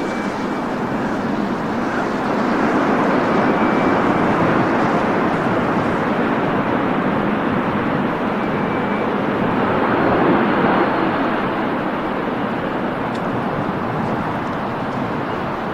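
Steady loud rush of jet airliner engine and wind noise, swelling a few seconds in and again past halfway.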